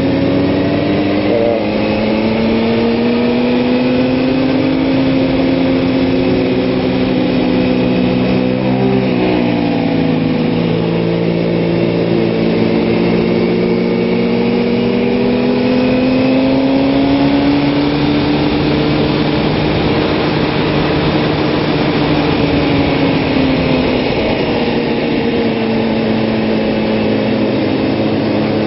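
Kawasaki ZX-6R's inline-four engine running hard and steady at speed, its pitch rising and falling gently with the throttle. About nine seconds in the revs dip briefly and pick up again.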